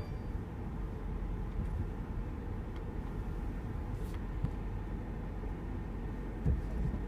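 Steady low rumble inside the cabin of a Mercedes-Benz SL550 roadster rolling slowly: engine and tyre noise at low speed.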